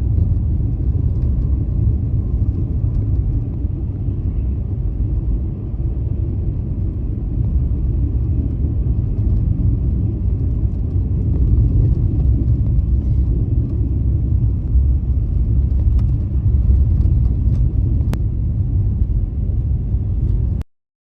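A car driving on snow-covered roads: a steady low rumble of engine and tyres with a few faint ticks. It cuts off suddenly near the end.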